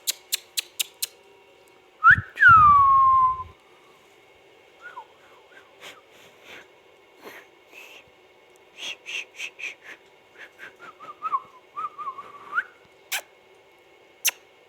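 Indian ringneck parrot whistling: one loud whistle about two seconds in that slides down in pitch, with a low rumble under it. Then come scattered short chirps and clicks, a few shorter whistled glides, and two sharp clicks near the end.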